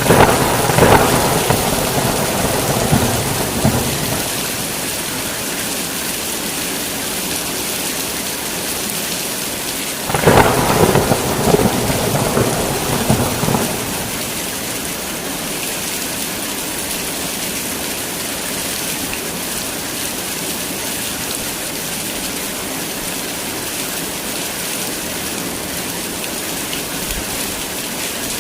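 Heavy rain pouring steadily, with two rolls of thunder: one crackling rumble at the start lasting about four seconds, and another about ten seconds in.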